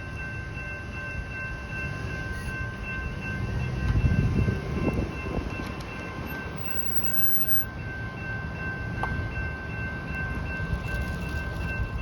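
Railroad crossing warning bell ringing steadily while the gates stay down, over a low rumble that swells about four seconds in.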